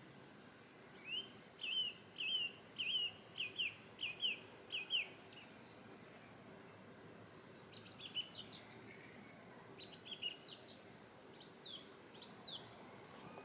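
Songbird singing outdoors: a run of about eight quick, evenly spaced chirped notes, roughly two a second, then scattered shorter notes and two arched, looping whistles near the end, over faint steady background noise.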